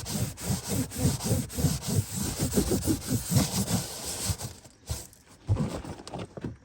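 Shop towel being rubbed back and forth to wipe up spilled oil, a quick run of repeated rubbing strokes that fades to a few scattered rubs after about four seconds.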